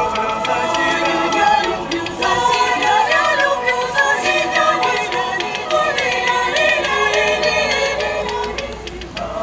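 Live music with several singing voices, like a small choir, over held chords. About two seconds in it moves from sustained notes to a busier, shifting passage.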